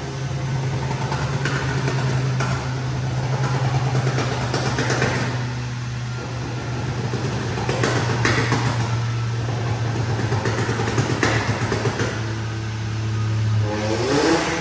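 VW Polo's 1.0 TSI three-cylinder turbo engine, Stage 2 remapped with a downpipe and bigger intake, running on a chassis dynamometer. It holds a steady low hum, with brief noisy spurts every few seconds.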